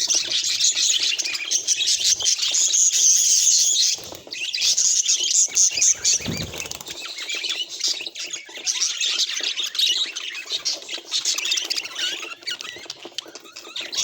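Budgerigars chattering and warbling in a dense, busy stream of high chirps and squawks, with a brief dip about four seconds in. A low thump sounds about six seconds in.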